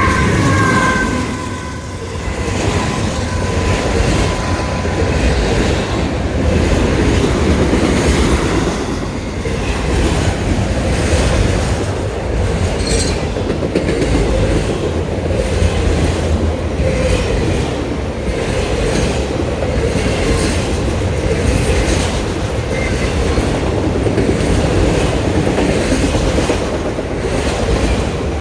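CSX freight train of car carriers rolling past, a steady rumble with wheels clacking over rail joints. A horn chord dies away in the first second.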